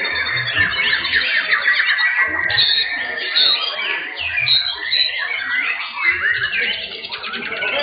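Many young white-rumped shamas singing at once in a contest: a dense, unbroken chorus of overlapping whistles, trills and rising and falling phrases.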